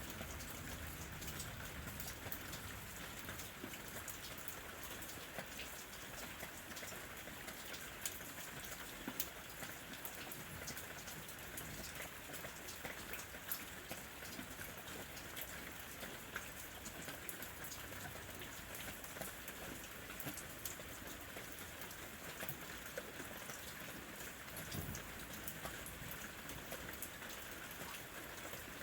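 Steady rain falling, with many sharp ticks of single drops landing close by.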